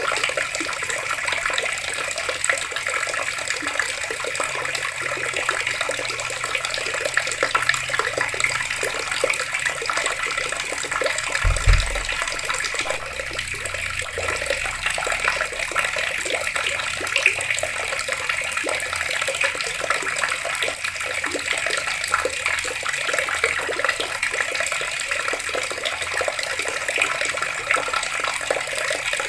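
Water running steadily from taps and splashing, an even rushing sound, with one dull low thump about twelve seconds in.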